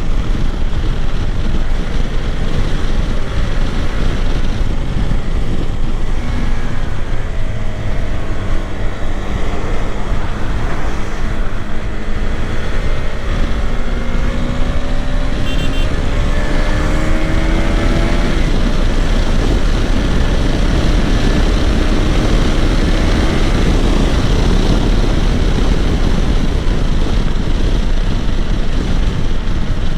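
KTM 390 Adventure's single-cylinder engine pulling on the move under heavy wind noise on the microphone. The engine note climbs for several seconds, drops about halfway through, then climbs again.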